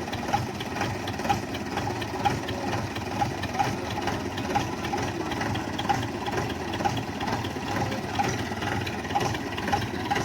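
Tractor diesel engine running at low revs, with a repeated sharp clacking over its steady drone.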